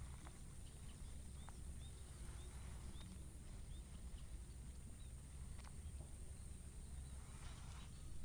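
Faint open-air rice-field ambience: a low rumble, a steady thin high tone, small chirps repeating every half second or so, and a few light clicks.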